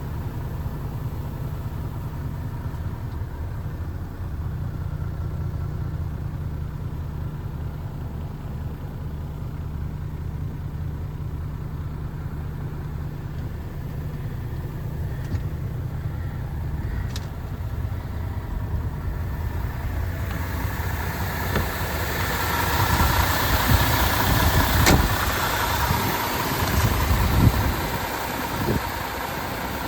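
MAN TGX 26.470 truck's diesel engine idling steadily with a low hum. About two-thirds of the way in, a louder hissing noise builds over it, with a sharp knock partway through, then eases off near the end.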